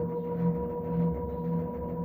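LG direct-drive washing machine on its spin cycle: a steady high whine over a lower hum that swells about twice a second, with a rumble beneath. This is the extreme spin noise the owner reports as a problem.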